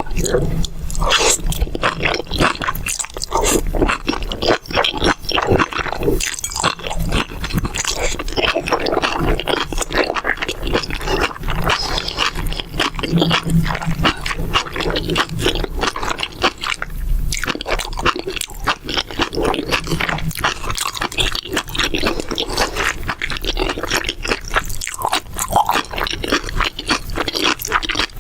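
Close-miked chewing of mala xiang guo, a spicy Chinese stir-fried dish: a dense, continuous run of crunches and wet mouth clicks.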